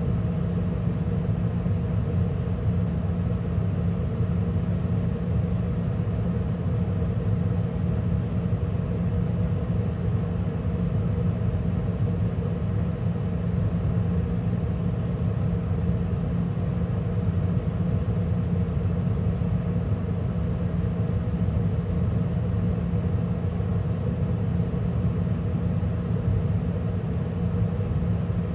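2013 Carrier gas furnace running steadily mid-cycle, with burners lit and the draft inducer and circulating blower running: an even rumble with a steady hum.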